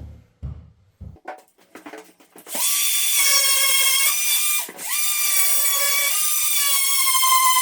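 Cordless power tool motor running at a steady high whine as it trims wood. It follows a few handling clicks, stops for a moment about two seconds after starting, and starts again.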